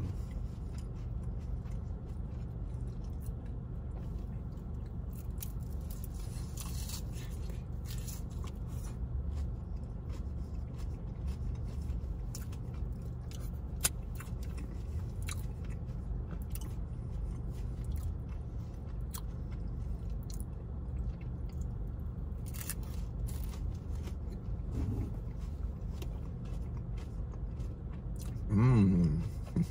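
Close-up chewing and crunching of a deep-fried mango pie's flaky pastry crust, with scattered small crunches and mouth clicks over a steady low hum. A short hum of the voice comes near the end.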